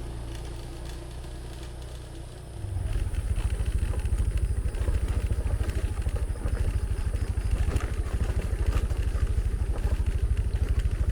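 Motorcycle engine running. About three seconds in it becomes louder, with a fast, even, low pulsing that carries on steadily.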